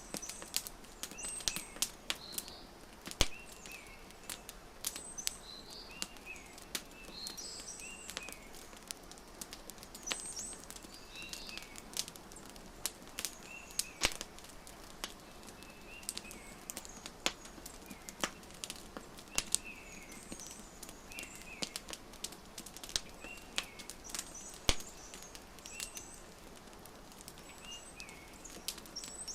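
Wood fire crackling, with irregular sharp pops over a steady hiss, while small birds chirp in short high calls every second or two.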